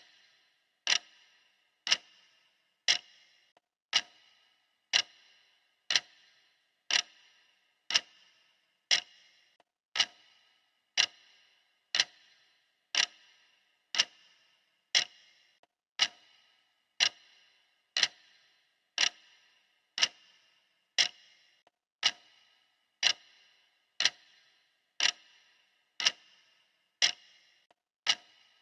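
Clock ticking steadily, one sharp tick each second, each with a brief ringing decay.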